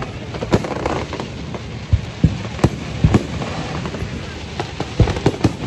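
Fireworks going off: a quick, irregular series of about a dozen sharp bangs and pops over a steady background rumble.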